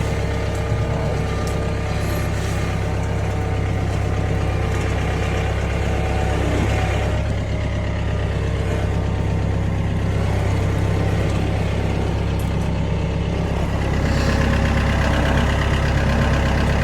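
Vehicle engine running steadily at low speed while towing a sawmill trailer, a low, even hum that grows a little louder about fourteen seconds in.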